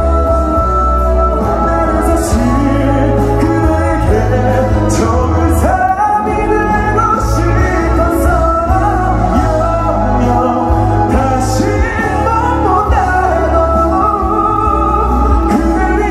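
Live pop ballad performance: a band with heavy bass and cymbal crashes every few seconds under a sung melody.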